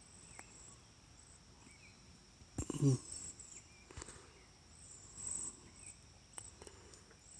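Crickets chirping in a steady high trill, with a few faint bird chirps and light clicks. One brief, louder low sound comes about two and a half seconds in.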